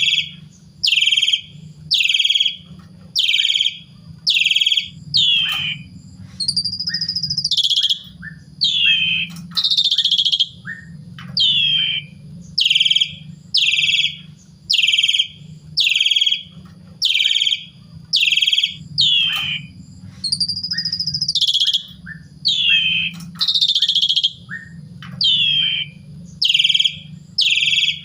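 Asian pied starling (jalak suren) calling over and over: a loud, short falling call about once a second, broken now and then by a longer whistled note that rises and then falls. A low steady hum runs underneath.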